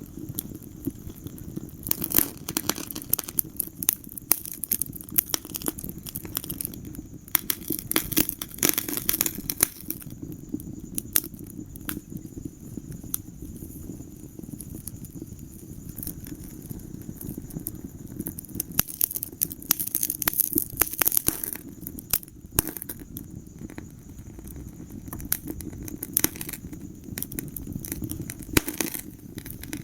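Wood fire burning in a fireplace: a steady low rumble of flames with frequent sharp crackles and pops, in denser clusters at a few moments.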